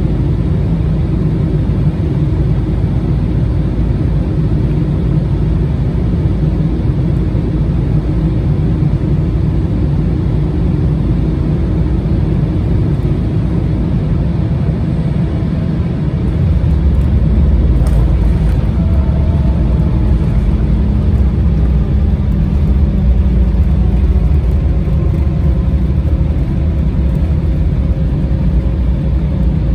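Cabin noise inside an Embraer regional jet: a steady rumble of engines and airflow. About halfway through, the deep rumble grows louder and stays that way, with faint gliding tones above it.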